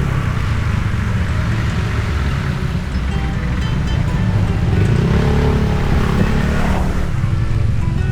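Motorbike engine running in slow stop-and-go traffic, with a low rumble and a brief rise and fall in engine pitch about five seconds in, under background music.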